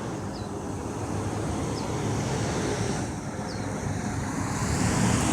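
Single-engine Cessna light aircraft's piston engine and propeller droning as it flies low, growing louder near the end.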